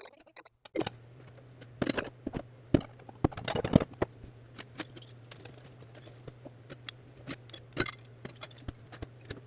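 Kitchen items being handled: a run of clicks and knocks, loudest and most frequent about two to four seconds in, over a steady low hum that starts just under a second in.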